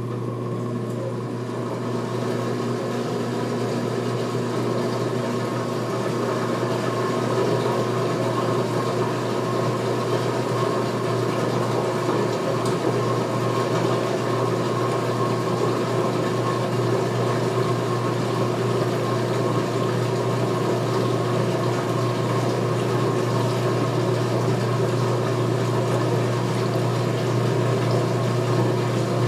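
2016 Speed Queen top-load washing machine in its final spin-drain: the motor and drain pump start abruptly and run with a steady hum over the rush of water being pumped out, getting slightly louder as the tub spins up.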